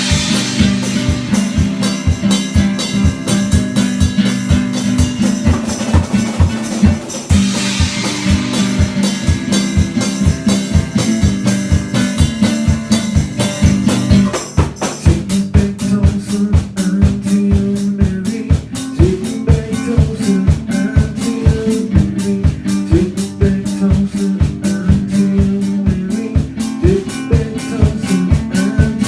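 Live band playing a country song, with a drum kit keeping a steady beat under guitar. There are cymbal crashes at the start and about seven seconds in, and after about fifteen seconds the sound changes, with a moving line of higher notes over the beat.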